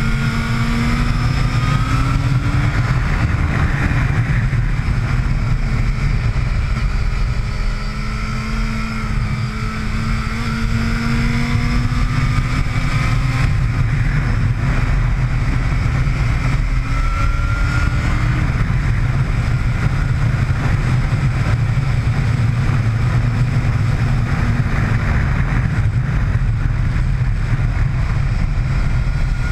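Sport motorcycle engine heard onboard at track speed, its pitch climbing as it revs and dropping back several times as the rider shifts and slows for corners, over a heavy wind rumble on the microphone.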